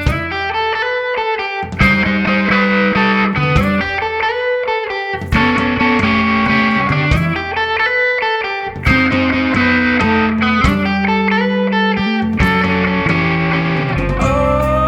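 Instrumental passage of a rock song: electric guitar with some distortion over a repeating bass line, with a strong hit about every three and a half seconds.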